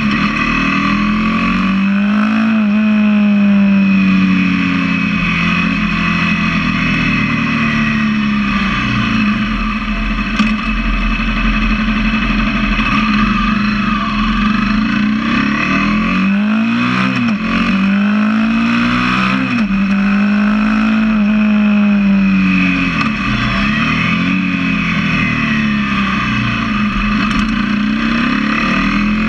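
Honda CBR250R's single-cylinder engine running through a LeoVince aftermarket exhaust with the dB killer fitted, its note rising and falling in pitch over and over as it revs up and drops back.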